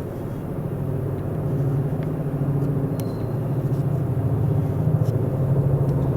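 Low-flying military helicopter, its rotor beating in a fast, even rhythm and growing steadily louder as it comes closer.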